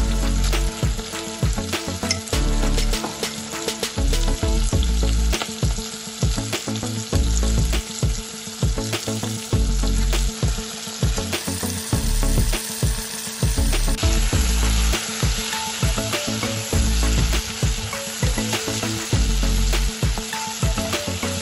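Sliced onions and carrots sizzling as they fry in oil in a pot, with a steady crackle and many small pops. Near the end a plastic slotted spatula stirs them, scraping through the vegetables.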